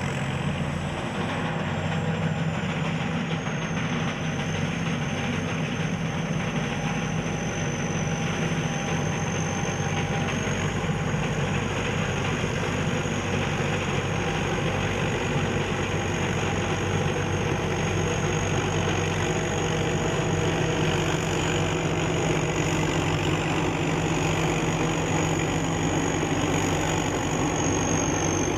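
SS-200 A rice combine harvester's engine running steadily, with a thin steady high whine above it.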